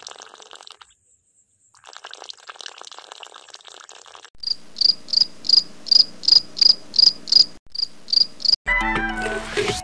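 Rhythmic cricket-like insect chirping, about three chirps a second, starting a little under halfway through and stopping as music begins. Before it, a faint crackling hiss, broken once by a short gap.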